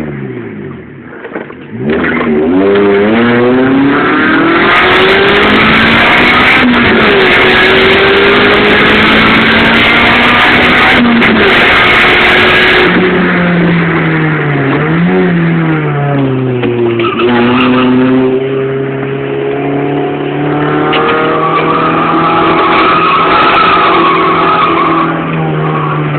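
Honda Civic VTi's B16A2 1.6-litre VTEC four-cylinder engine running with the rear muffler removed, so the exhaust is loud and raw. About two seconds in it revs up in several rising sweeps to high rpm and holds there. Near the middle it drops and climbs again, then settles into a steadier, lower drone that rises and falls a little.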